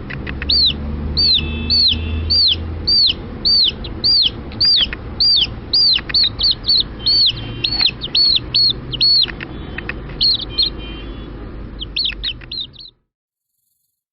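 A bird calling over and over with short, high, arched chirps, about two to three a second, over a low steady rumble. It stops abruptly about 13 seconds in.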